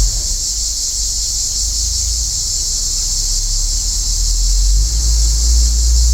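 Steady, unbroken high hiss of a cicada chorus in the trees, with a low rumble underneath that swells in the last second or two.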